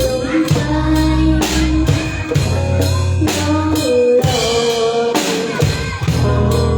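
A live band playing a song with drums, bass and guitar, with a sung or melodic lead line over a steady drum beat.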